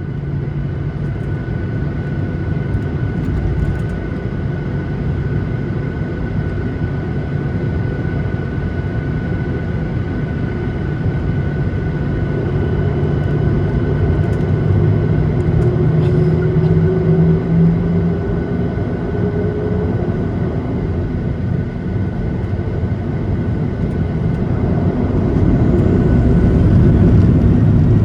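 Boeing 737-800 with its CFM56-7B jet engines running: a steady rumble with a constant high whine. Partway through, a tone rises slowly, and the noise grows a little louder near the end.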